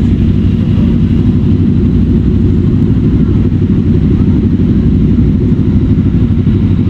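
Motorcycle on the move, its engine and road noise running steadily as a continuous low rumble with no change in pace.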